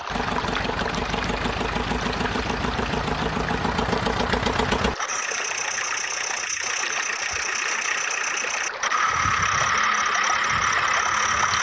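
A motor running with a fast pulsing rumble. About five seconds in it changes to a steady high whine, which gets louder about nine seconds in.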